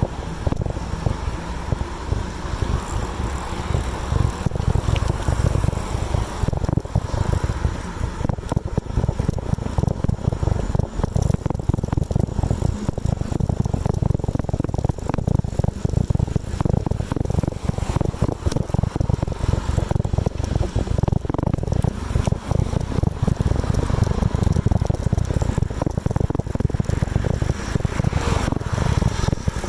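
Wind buffeting the microphone of a camera on a moving bicycle: a steady low rumble that flutters rapidly, with light rattles and clicks from the ride.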